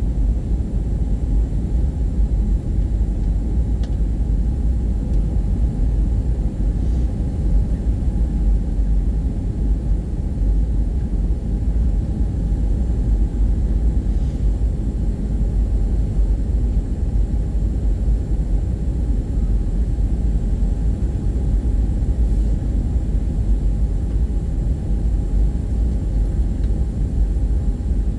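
Steady cabin noise inside an Airbus A320 in flight: a low, even rumble of airflow and engine drone with a faint steady hum over it.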